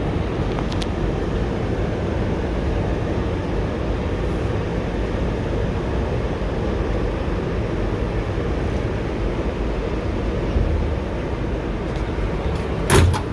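Steady rumble and hiss heard inside an R211T subway car on the move, with one sharp knock near the end.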